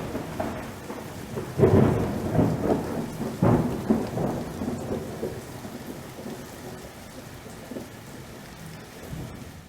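A deep rolling rumble in irregular swells: the heaviest come in the first four seconds, then it slowly dies away.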